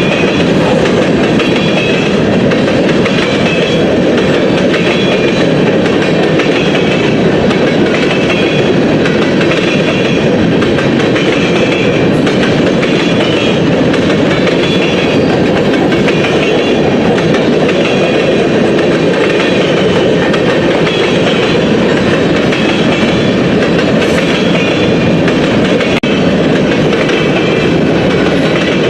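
Freight train rolling past, a loud steady rumble of cars running on the rails.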